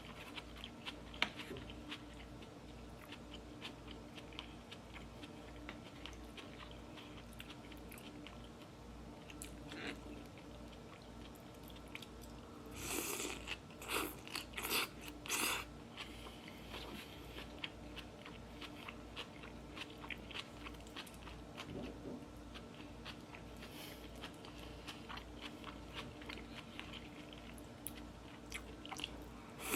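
A person chewing food close to the microphone: wet mouth clicks and chewing throughout, with a few louder noisy bursts around the middle.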